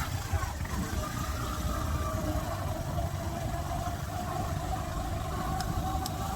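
Motorcycle engine running at a steady road speed under a dense low rumble, with a faint engine note that climbs slowly in pitch.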